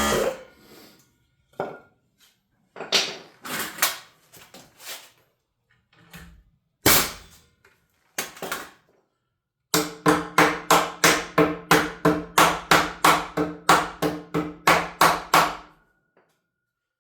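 Hammer blows during wood framing work: a few scattered knocks, then a fast, even run of about twenty strikes, roughly three a second, each with the same ringing note.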